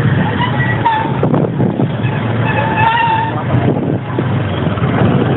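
Motorcycle running on the move, with heavy rushing wind and road noise on the microphone. A few short higher-pitched sounds come through about half a second in and again around three seconds in.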